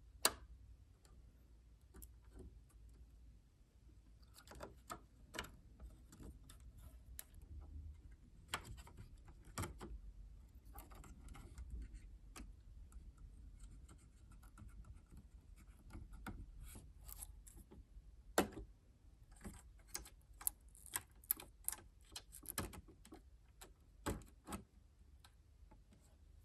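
Irregular light clicks and taps of a laptop's plastic parts and small tools being handled. They come thicker and faster about three quarters of the way through.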